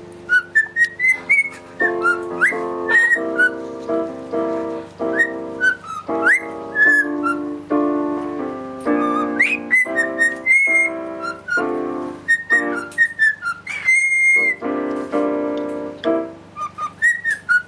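A pet songbird whistling and chirping in short high notes, slides and a few held tones, over music with sustained pitched notes playing underneath.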